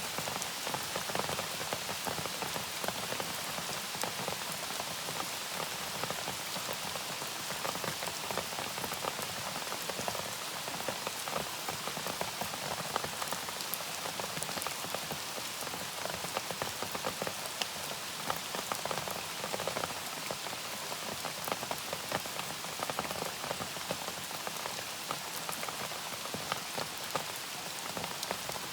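Steady rain falling on a surface, many separate drops ticking over an even hiss.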